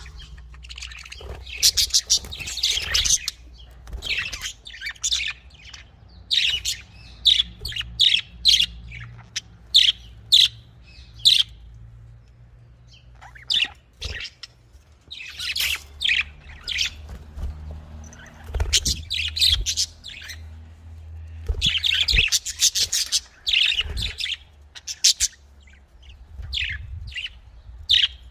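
Budgerigars chirping and chattering in quick, high-pitched bursts, with short pauses between bursts.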